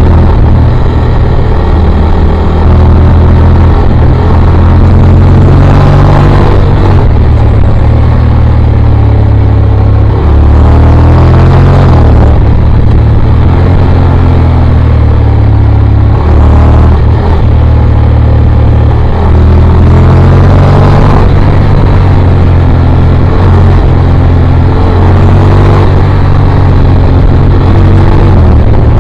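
Motorcycle engine under hard acceleration, running loud and rising in pitch several times with a drop at each gear change.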